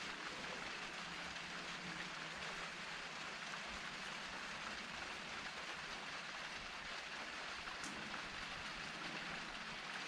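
Steady rainfall, drops pattering evenly on surfaces. A faint brief high tick comes near the end.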